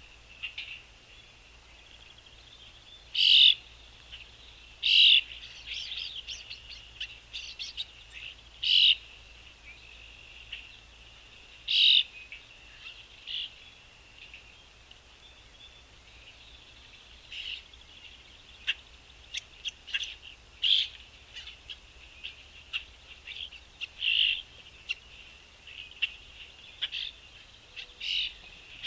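Birds chirping: short separate chirps every second or so, a few much louder ones in the first half.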